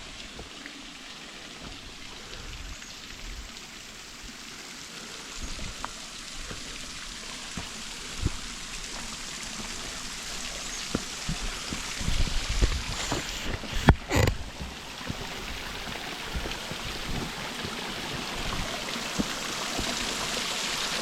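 Small waterfall splashing down a rock face as a steady rush of water that grows louder toward the end, with a few scattered knocks.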